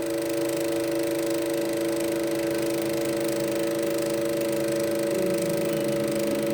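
Steady droning hum of several held pitches over a light hiss, with a lower pitch joining about five seconds in.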